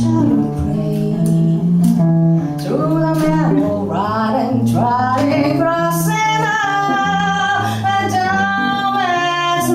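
Singing voice over acoustic guitar accompaniment in a slow jazz ballad. The voice holds long, wavering notes through the second half.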